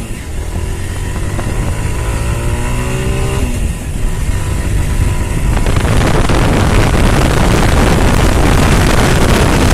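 A TVS Stryker 125 motorcycle's single-cylinder engine pulling under acceleration, its pitch rising, then dropping at a gear change about three and a half seconds in. From about five and a half seconds a louder, even rushing noise builds and covers the engine note.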